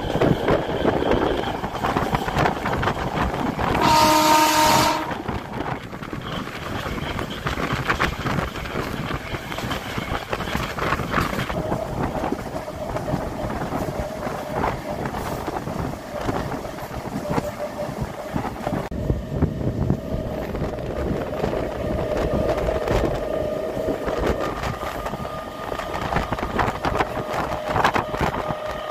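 MEMU electric train running along the track, heard from an open door: a steady rumble and wheel clatter with wind. About four seconds in, a single horn blast lasting about a second is the loudest sound.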